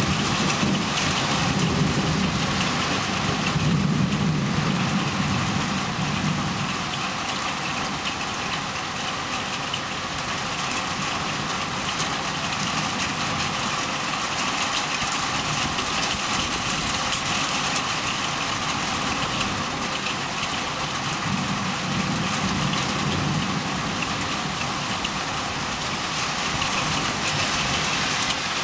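Heavy rain falling steadily, with a low rumble that swells over the first few seconds and again about three quarters of the way through.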